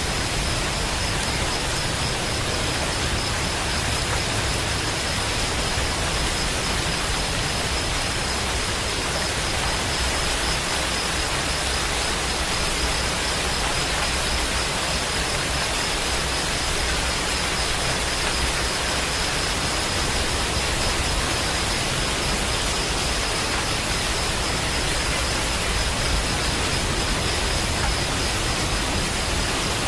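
Steady, unbroken rain: an even hiss of falling rain with no single drops standing out, and a thin steady high tone running through it.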